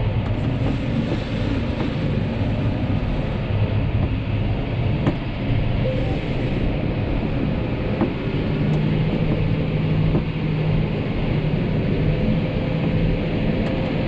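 John Deere 6250R tractor engine running steadily under load while pulling a chisel plough, its low hum shifting in pitch about eight seconds in.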